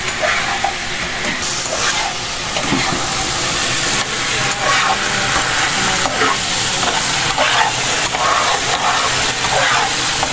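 Diced chicken frying in hot oil in a pan, sizzling steadily, with a spatula stirring and scraping the pieces around the pan.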